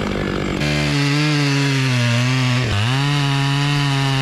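Large chainsaw with a 28-inch bar running at full throttle while felling a big ash tree, a steady high engine note that sags briefly about two and a half seconds in as the chain loads up in the cut, then picks back up.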